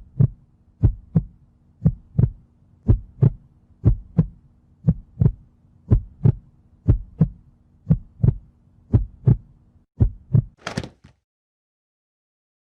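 Heartbeat sound effect: paired lub-dub thumps, about one pair a second, over a faint steady hum. The beats stop near the end with a short, sharp swish.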